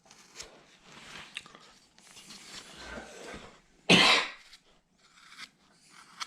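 Soft scraping of a carving gouge cutting small scoops from wood, then a single short cough about four seconds in, the loudest sound.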